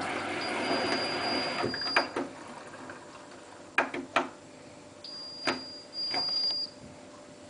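Hotpoint Ultima WT960 washing machine control panel: three high electronic beeps, the first about a second and a half long and two shorter ones later, with sharp clicks of buttons being pressed as the programme is set. A rushing noise at the start cuts off after about a second and a half.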